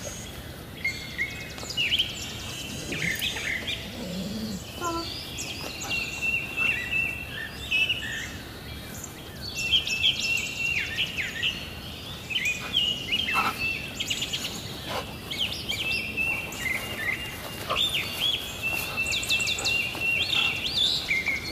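Wild songbirds chirping and calling, with short high trills repeated every few seconds.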